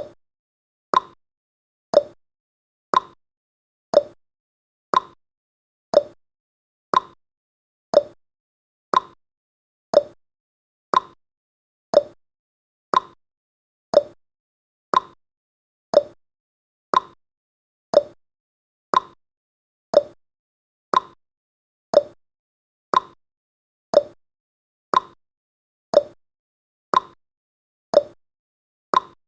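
Clock tick-tock sound effect of a countdown timer: sharp ticks at exactly one a second, some higher and some lower in pitch, with silence between.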